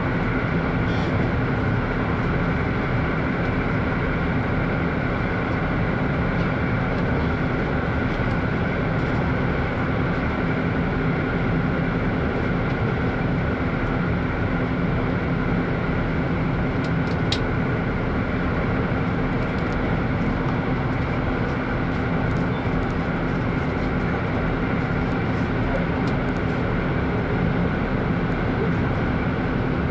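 Running sound of the Hida limited express diesel train at speed, heard from inside the passenger car: a steady rumble of wheels on rail with a constant hum.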